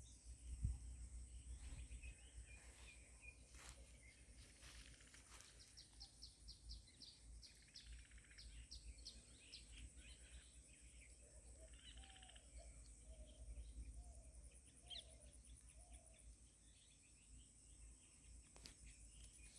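Faint outdoor ambience of several birds calling: a quick run of high ticking notes, scattered chirps, and a short series of about six lower whistled notes, over a steady high-pitched insect hum.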